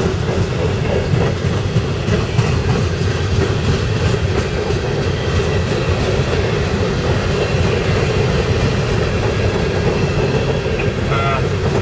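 Loaded-style coal hopper cars of a freight train rolling past close by: a steady, even rumble of steel wheels on rail, with faint clicks as the wheels pass over the rail joints.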